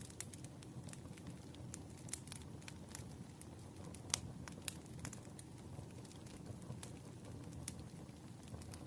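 Campfire burning steadily with a low rumble and scattered sharp crackles and pops; the loudest pop comes about four seconds in.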